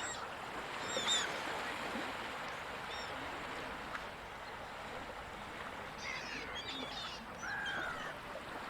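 Gulls calling in short, gliding cries, a few about a second in and a cluster from about six to eight seconds, over a steady wash of ocean surf.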